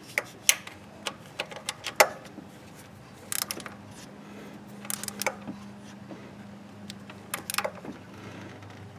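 Hand wrench tightening the bolt on a newly fitted idler pulley of a Ford Escape's serpentine belt drive: scattered sharp metallic clicks and clinks, some single and some in quick clusters, with pauses between strokes.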